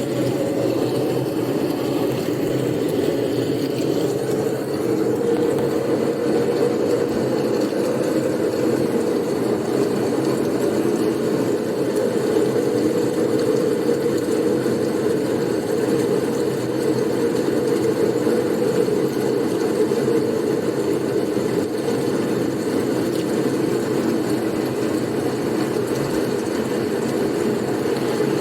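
Steady blizzard wind noise, a low, even rush that never breaks or gusts.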